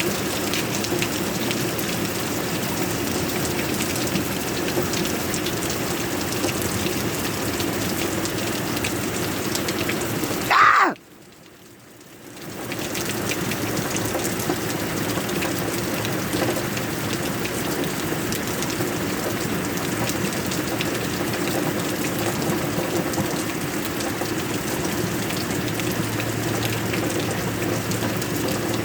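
Heavy rain falling steadily. About ten seconds in, a brief louder rising sound, then the rain drops away for about two seconds before coming back.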